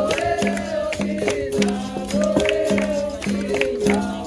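Capoeira roda music: a voice sings over a berimbau that alternates between two notes, with sharp pandeiro-like strikes keeping the rhythm.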